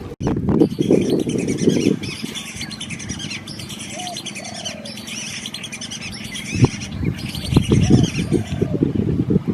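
Many small birds chirping and twittering in a swamp, with a short, lower call coming twice in the middle and twice again near the end. A low rumbling noise rises in the first two seconds and again later on.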